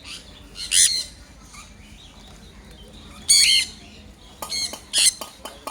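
Pet birds giving three loud, harsh squawks spaced a second or two apart, with a few sharp clicks in the last second or so.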